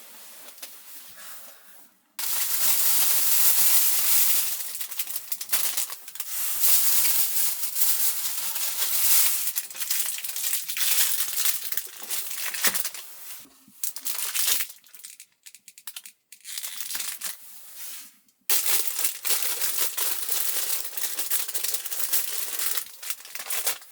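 Crinkling and rustling of something being handled close to the microphone, starting abruptly about two seconds in and going on in spells with brief pauses.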